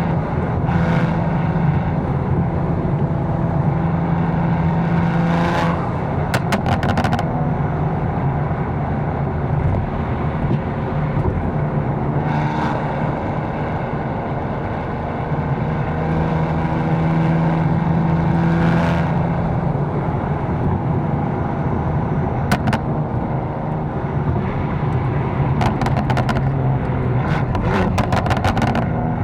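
Catless 750 hp BMW M4's twin-turbo inline-six running under way in traffic, its engine note holding steady and shifting in pitch as the car eases on and off the throttle. A few short bursts of rapid sharp crackles come through, one about six seconds in and several near the end.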